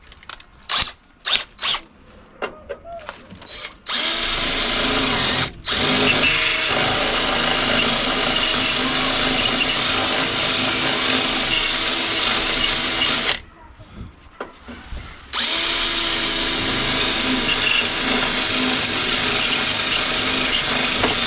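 A few knocks and clicks, then a power drill running at a steady pitch, drilling out spot welds in the car's sheet-steel inner wing. It stops for a moment about a second and a half after starting, and stops again for about two seconds past the middle before running on.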